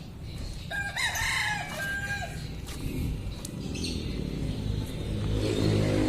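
A rooster crows once, about a second in, lasting about a second and a half, over the low running of a car engine that grows louder near the end.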